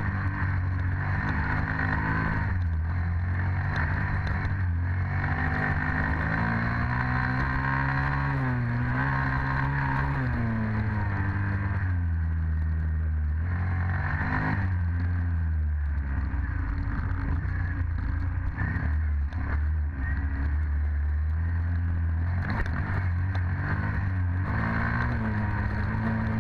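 Dirt bike engine running hard under throttle, its pitch climbing and dropping several times as the rider opens and closes the throttle and shifts.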